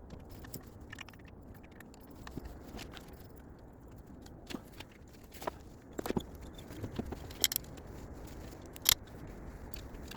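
Scattered sharp clicks and clinks, like hand tools and small metal parts being handled during engine work, with the clearest ones in the second half.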